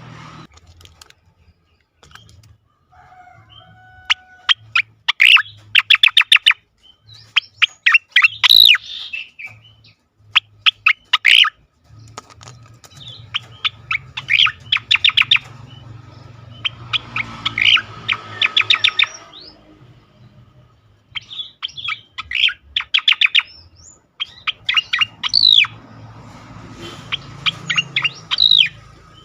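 Cica koreng (striated grassbird) singing its 'ngejoss' song: phrases of rapid, sharp repeated notes lasting a second or two, given again and again with short pauses.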